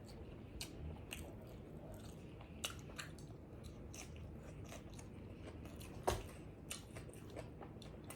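A person chewing and biting a pizza taco close to the microphone: faint, irregular crunches and mouth clicks, with one sharper crunch about six seconds in.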